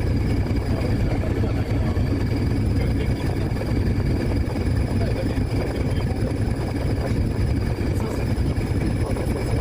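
Steady low rumble of a running vehicle or engine, unbroken throughout, with a few faint constant high-pitched tones above it.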